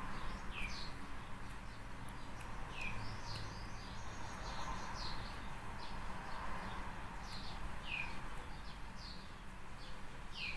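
Birds chirping faintly in the background: short, quick falling chirps about every second, over a faint steady low hum.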